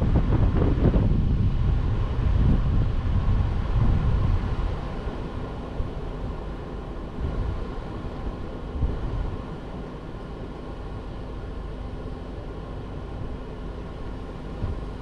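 Car driving, with its engine, tyre and wind noise picked up by a suction-cup-mounted camera. The noise is loud for the first few seconds, then eases to quieter steady running with a faint even engine hum.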